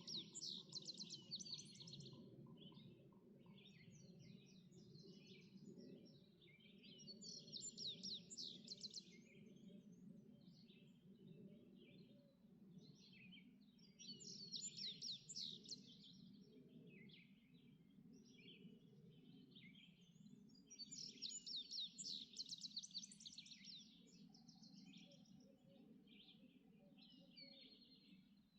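A songbird singing a bright, rapid phrase about every seven seconds, with softer chirps between the phrases, over a faint steady low rumble.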